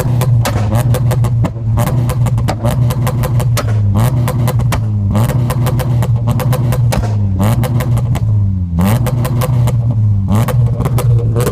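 Toyota Celica engine held on an Omex aftermarket rev limiter, running loudly at a steady high pitch with a rapid stuttering crackle as the limiter cuts in and out. About every one to two seconds the revs dip briefly and climb straight back onto the limiter.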